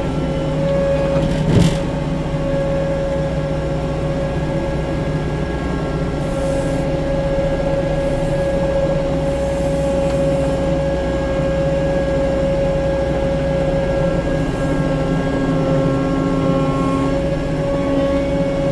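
A 6-ton tracked skid steer running at a steady engine speed, with a steady high whine over the engine, and a single knock about one and a half seconds in.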